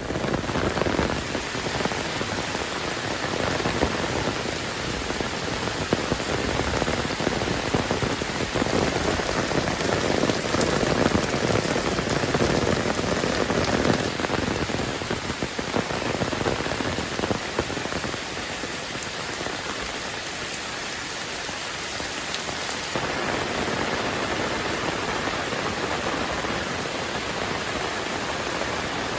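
Heavy rain falling steadily, a dense hiss of countless drops spattering on surfaces, with small drop ticks throughout. The deeper part of the sound thins a little about two-thirds of the way through.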